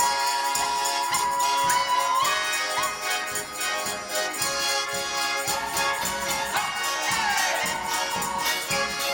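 Ukrainian folk ensemble music: a tambourine jingling in a steady rhythm under a long held melody line that slides between notes.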